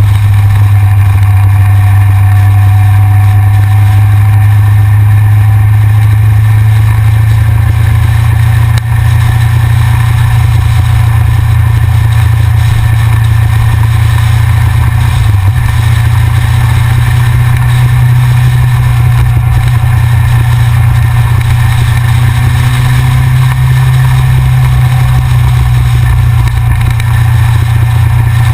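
Yamaha XJR motorcycle's inline-four engine running steadily under way, picked up by a camera mounted on the front of the bike. A steady low drone with a small shift in pitch about halfway through.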